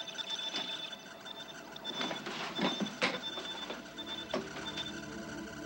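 Electronic beeping and clicking: a high tone pulses on and off in short beeps, with a few sharp clicks around the middle, and steady lower tones come in near the end.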